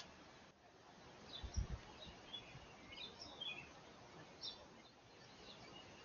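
Small birds chirping faintly, a scattering of short high calls through the middle, over a low steady hiss. A single dull low thump comes about a second and a half in.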